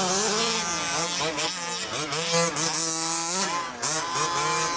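Several gas-powered 1/5-scale RC trucks (HPI Baja 5T) racing, their small two-stroke engines revving up and down over one another in rising and falling whines.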